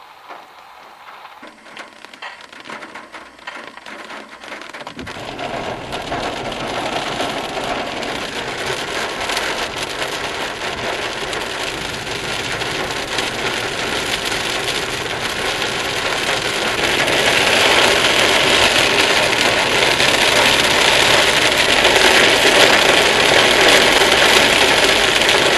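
Heavy rain drumming on a car's roof and windshield, heard from inside the car, with road and engine noise beneath. It builds from about five seconds in and is heaviest over the last third.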